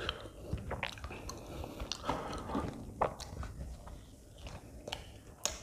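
Chewing and biting of a soft stuffed flatbread (aloo paratha), with wet mouth clicks and smacks coming irregularly, and the flatbread being torn by hand at the start.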